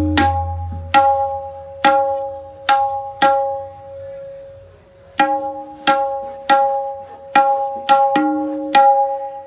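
Hand-made tabla (dayan) struck in single demonstration strokes, each leaving a clear, sustained pitched ring with overtones. A low bass ring fades out about a second in, and the strokes pause briefly near the middle before resuming. The ring shows what the maker calls very good resonance.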